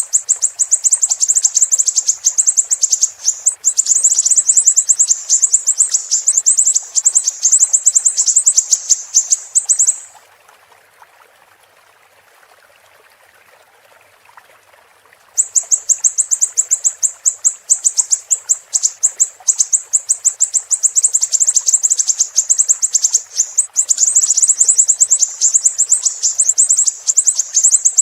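Siri-siri bird song: a fast, high-pitched chattering run of rapid repeated notes. It breaks off about ten seconds in, leaving only a faint hiss for about five seconds, then starts again and runs on.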